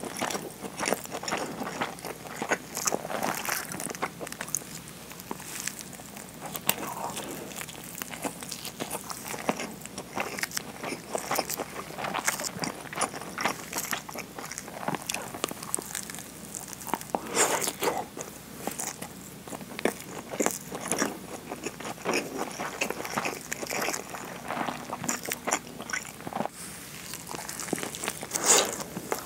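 Close-miked eating: biting into and chewing a nori-wrapped rice ball, a steady run of small crackles and moist chewing clicks, with one loud bite near the end.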